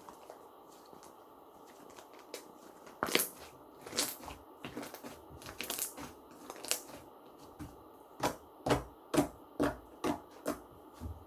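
Slime being squeezed and pressed by hand, giving off sharp pops: a few scattered ones, then a quick run of about six near the end.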